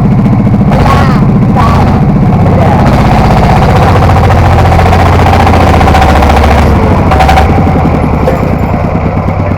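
Three-wheeled farm tractor's single-cylinder diesel engine running hard, its exhaust a loud, rapid chugging.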